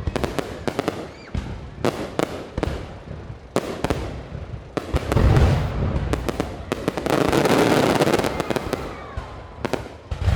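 Aerial fireworks going off: a run of sharp bangs, a deep boom about five seconds in, then a dense stretch of crackling a little later, with a faint falling whistle as it fades.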